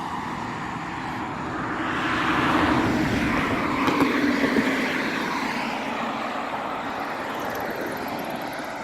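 Sport-bike engine running at held revs, swelling louder about two seconds in and then slowly fading.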